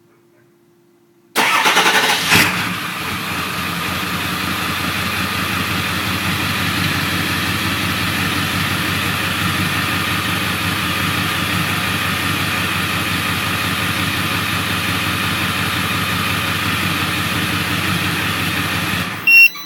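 A 7.3-litre turbo-diesel V8 with a 4-inch Magnaflow turbo-back exhaust, remote-started: it fires about a second in, settles into a steady idle, and is shut off suddenly near the end, with a short beep.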